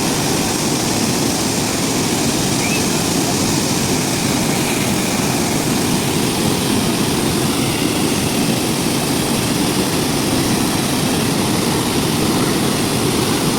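Large, high-volume waterfall: a loud, steady rush of falling water.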